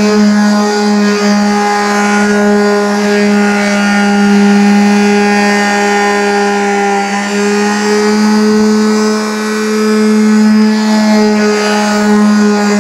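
A motor running steadily at a constant pitch, giving a loud, even hum with a strong low tone.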